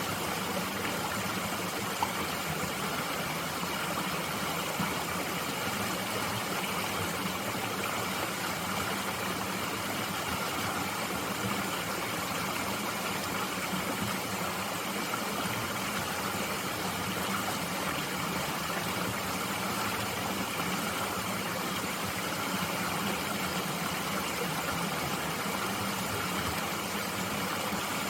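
Steady rushing of a mountain stream flowing over rocks, with one small click about two seconds in.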